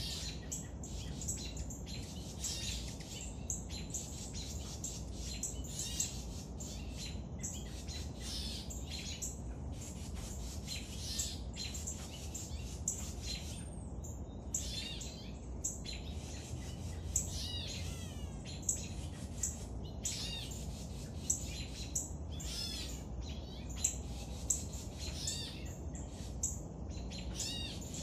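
Birds chirping: a steady stream of short, high calls repeated many times a second or so, over a steady low rumble.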